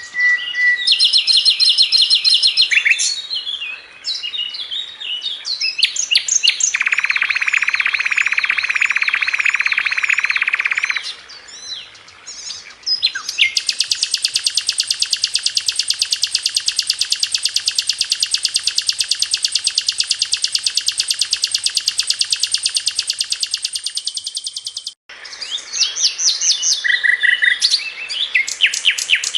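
A sikatan londo (a flycatcher) singing continuously: varied high chirping phrases, a dense buzzy trill, then one long, very fast, even trill lasting about ten seconds that cuts off abruptly, followed by more quick chirps and notes.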